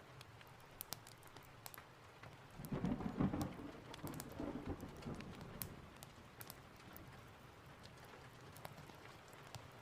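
Steady rain with a roll of thunder that swells about two and a half seconds in, peaks near three seconds and fades out by about five seconds. Scattered sharp ticks and crackles run through the rain.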